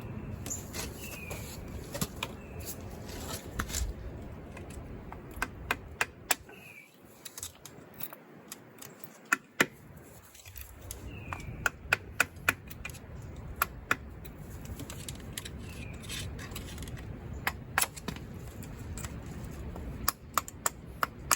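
Hand tools and bolts clicking and clinking on a diesel engine being taken apart: scattered sharp metallic clicks, bunched in irregular clusters.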